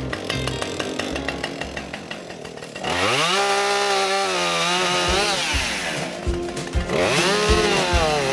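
Husqvarna 550XP two-stroke chainsaw revved up to full throttle about three seconds in. It holds a high whine, with the pitch sagging and then climbing back near the end.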